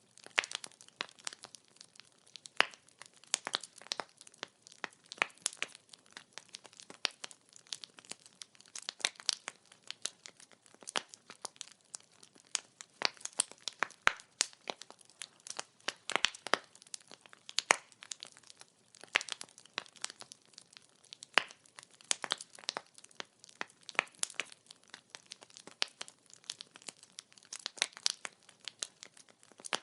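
Firewood crackling as it burns: a dense, irregular run of sharp pops and snaps, some louder than others, over a faint hiss.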